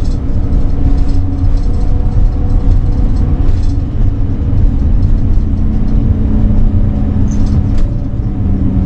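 RV engine and road noise while driving, a steady low rumble with a constant engine drone.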